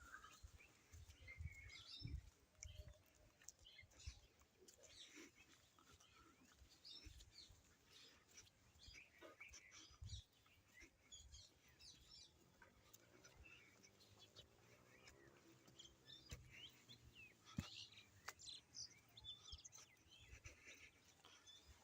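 Faint, scattered bird chirps over a quiet outdoor background, with occasional low thumps.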